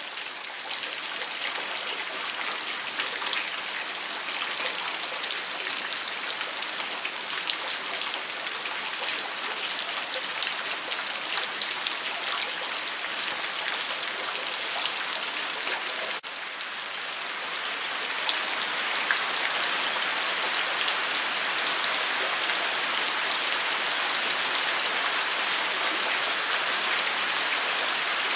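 Steady rain falling, a dense patter of many small drops hitting surfaces, with a brief drop in level about halfway through.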